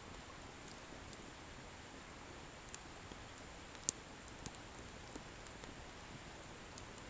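Wood bonfire burning with a low steady hiss and a few sparse, irregular crackles and pops of the firewood, the sharpest about four seconds in.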